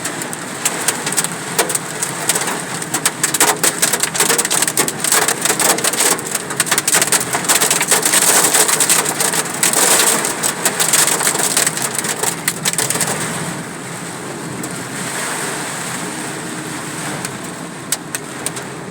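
Hail pelting a vehicle in a heavy storm: a dense, loud rattle of hailstones striking. The hits thin out about two-thirds of the way through, giving way to a steadier rain hiss.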